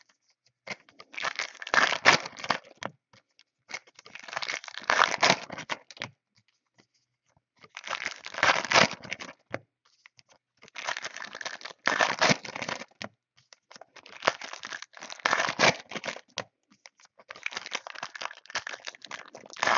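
Foil trading-card pack wrappers being torn open and crinkled by hand, in about six separate bursts of tearing and rustling.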